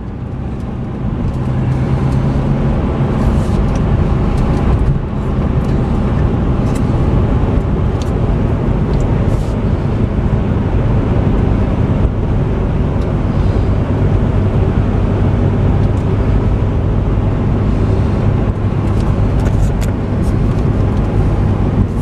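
Chevrolet Corvette Z06's supercharged 6.2-litre LT4 V8 running steadily at cruising speed, with tyre and road noise heard from inside the cabin.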